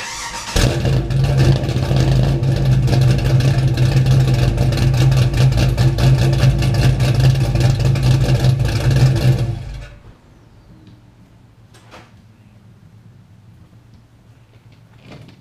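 Cammed LQ9 6.0-litre V8 in a 2006 Pontiac GTO cranks briefly, catches within about half a second and idles with a choppy cam lope through the exhaust. It stops after about nine seconds, followed by a couple of faint clicks.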